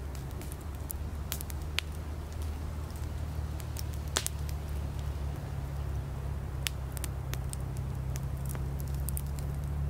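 Campfire crackling: firewood pops and snaps at irregular moments, one sharper pop about four seconds in, over a steady low rumble from the fire.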